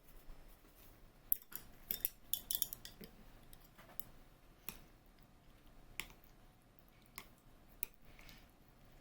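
Tableware clicking and clinking: a quick run of sharp clicks a second or so in, then single clicks every second or so.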